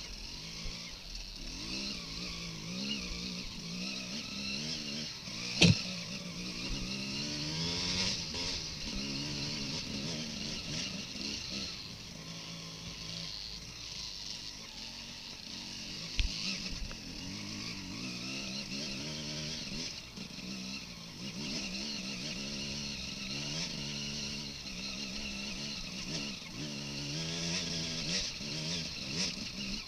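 Off-road dirt bike engine running on a rocky trail, its revs rising and falling over and over as the rider works the throttle. Two sharp knocks cut through it, the loudest about five and a half seconds in and a smaller one about sixteen seconds in.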